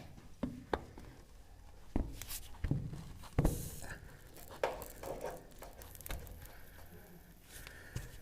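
Scattered clicks, knocks and rustles of plastic pipe and fittings being handled while a joint is heat-soldered, with a few sharper knocks among quieter handling noise.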